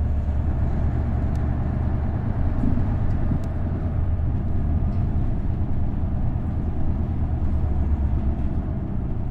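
V8-engined Isuzu Erga city bus with a 5-speed manual gearbox driving along, its engine giving a steady low drone.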